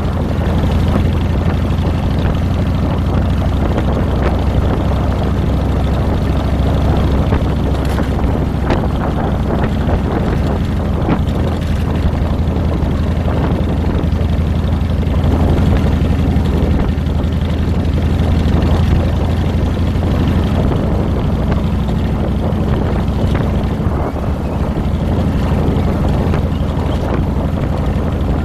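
Harley-Davidson Fat Boy's air-cooled Twin Cam 96 V-twin running steadily while the bike is ridden along, with a steady rush of wind and road noise on a handlebar-mounted microphone. The engine eases off briefly near the end.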